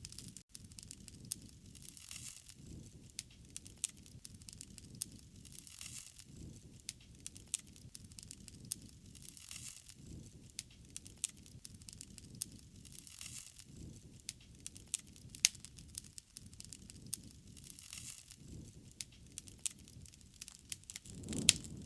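Wood fire crackling, with frequent sharp pops and snaps at irregular moments over a low rushing sound of the flames that swells and fades every few seconds.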